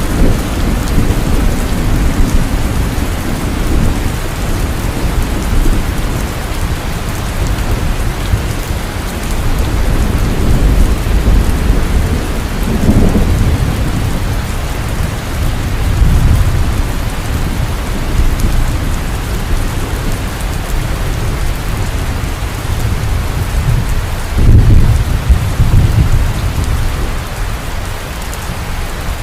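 Heavy rain falling steadily, with low thunder rumbling in swells throughout; the strongest roll comes about five seconds before the end.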